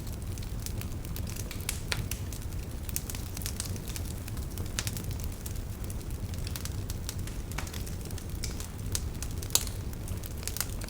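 Wood campfire crackling, with frequent irregular sharp pops and snaps, over a low steady rumble.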